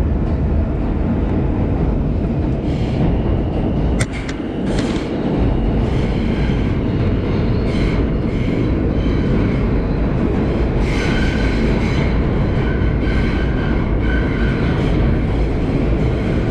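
Subway train running at speed, heard from inside the car: a steady loud rumble of wheels on rails, with a sharp click about four seconds in. Thin high-pitched tones come and go through the second half.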